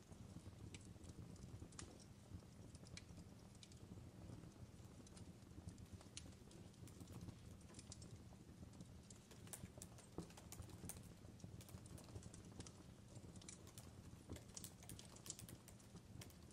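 Faint fireplace crackling: irregular sharp pops and snaps, more frequent in the second half, over a low steady rumble.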